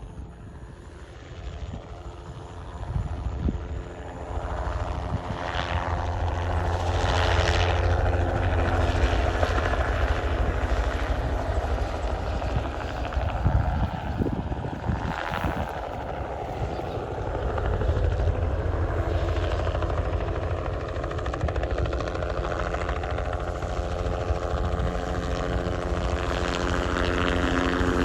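A crop-spraying helicopter flying low. Its rotor and engine grow louder over the first several seconds as it approaches, then run steadily, easing off a little midway and swelling again.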